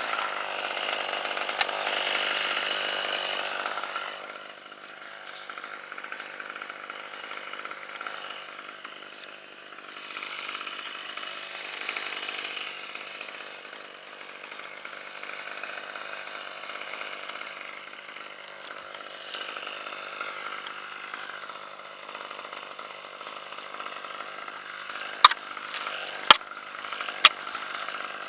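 Chainsaw running and cutting into red oak, its level swelling and fading as it works. A few sharp knocks sound near the end.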